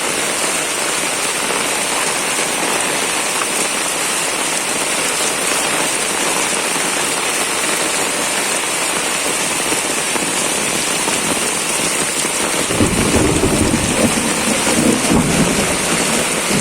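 Heavy rain pouring steadily, with a low rumble of thunder rolling in about thirteen seconds in and lasting about three seconds.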